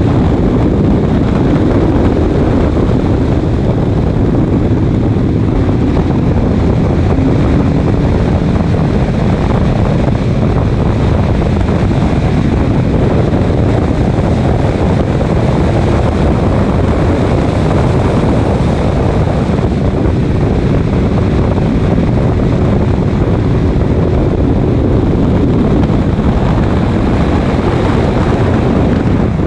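Race car running at speed on track, a steady loud mix of engine, road noise and wind buffeting the microphone.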